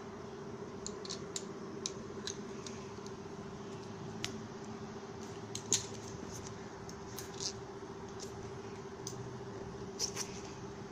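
Irregular small, sharp clicks and taps, loudest around six and ten seconds in, over a steady low hum.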